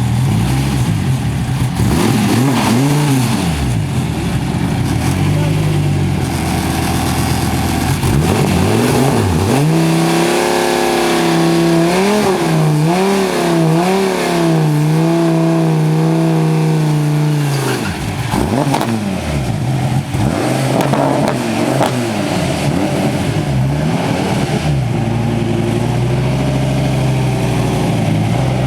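Twin-turbo Dodge Viper V10, breathing through mufflers, revving in repeated rising and falling blips. About ten seconds in it pulls hard at full throttle for roughly seven seconds, its pitch wavering and stepping, then drops off sharply. More rev blips follow near the end.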